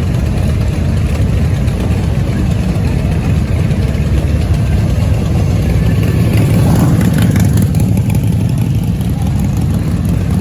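Motorcycle engines idling and rumbling steadily in a busy street, swelling a little about two-thirds of the way through.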